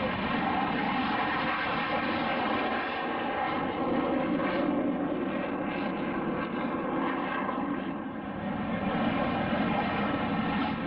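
A fixed-wing aircraft's engine running steadily, a dense even-pitched hum that dips slightly in loudness about eight seconds in.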